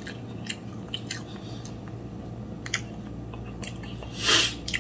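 A person chewing pancakes with scattered small wet clicks and smacks of the mouth, ending with a short breathy hiss near the end.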